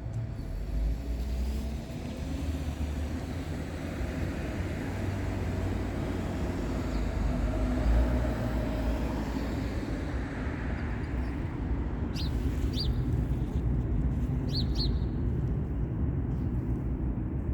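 Steady rumble of road traffic with cars swelling past, and a few short, high bird chirps about two-thirds of the way through.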